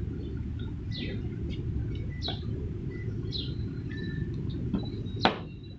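Small birds chirping, short falling chirps about once a second, over a steady low background rumble. A single sharp knock near the end.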